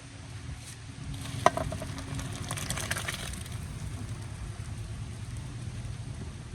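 Food sizzling as it fries in a cooking pot, with a sharp click about one and a half seconds in and a short burst of crackling around three seconds.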